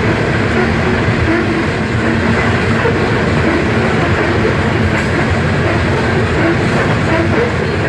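Freight cars of a gravel train rolling past a level crossing: a steady, unbroken noise of steel wheels running on the rails.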